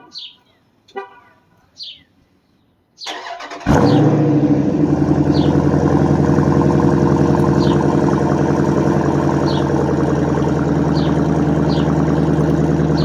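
Dodge Durango SRT's V8 cold-starting on its stock exhaust. The starter cranks briefly about three seconds in, the engine catches with a loud burst of revs, then settles into a steady idle.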